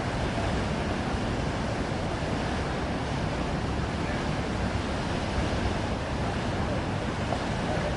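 Burst water main gushing: a steady rush of water jetting high into the air and splashing down.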